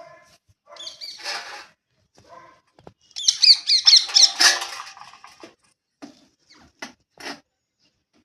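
Birds calling: a harsh call about a second in, then a loud run of quick, repeated squawks, followed by a few short clicks near the end.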